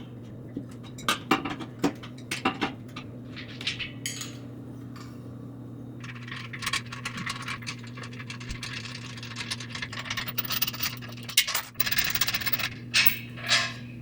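Tools and small metal parts clinking, scraping and rattling as an air compressor is taken apart by hand, with scattered clicks that grow busier in the second half, over a steady low hum.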